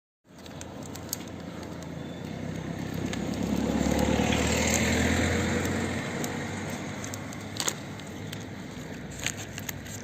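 A car passing by: a steady rush of road noise that swells to its loudest about halfway through, then fades back, with a few light clicks near the end.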